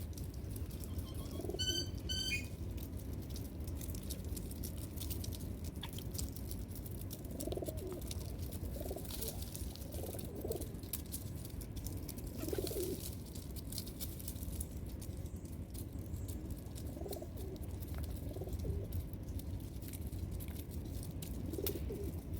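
Doves cooing: soft, low coos that come back every few seconds, with a brief series of higher chirps from another small bird about two seconds in, over a steady low background rumble.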